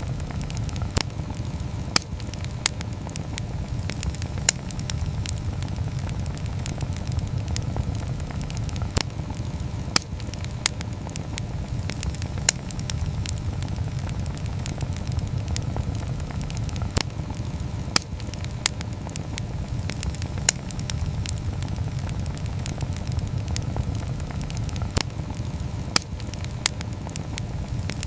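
Wood campfire burning, with a steady low rumble of flame and sharp crackles and pops coming at irregular intervals.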